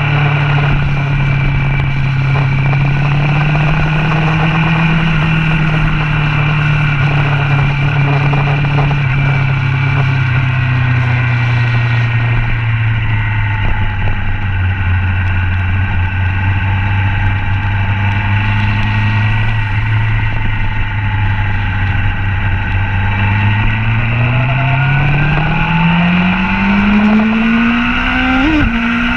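Motorcycle engine heard from a camera mounted on the bike during a track lap. The engine note eases down about a third of the way in and holds low and steady, then climbs steeply near the end as the bike accelerates out of the corner.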